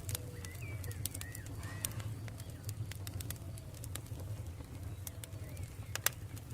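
Campfire crackling with scattered sharp pops, the loudest about six seconds in, over a steady low rumble. Birds call in the background with short repeated calls, including dove-like cooing.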